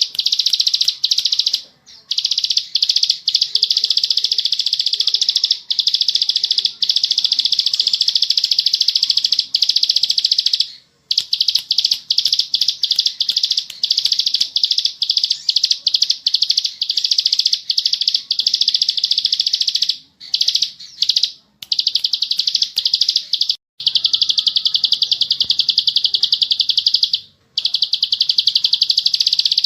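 Plain prinia (ciblek sawah) singing non-stop in long, high-pitched, rapid buzzy trills of several seconds each, broken by brief pauses.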